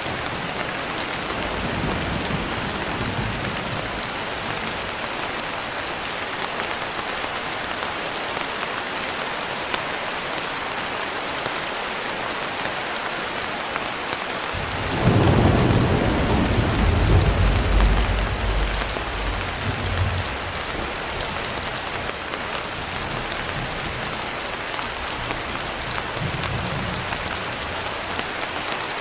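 Steady heavy rain falling. About halfway through, a roll of thunder breaks in suddenly as a deep rumble, the loudest sound here, and dies away over about five seconds.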